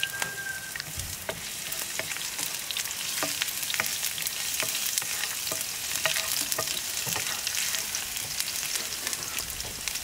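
Chopped garlic and ginger sizzling in hot oil in a frying pan, with many small crackling pops, while a wooden spatula stirs them.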